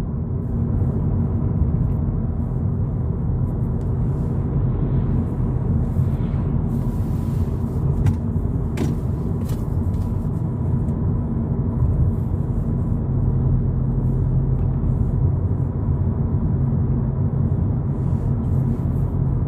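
Steady low road and engine rumble heard from inside a 2022 VW Polo GTI cruising along a flat road, with an engine hum that grows a little stronger about two-thirds of the way through.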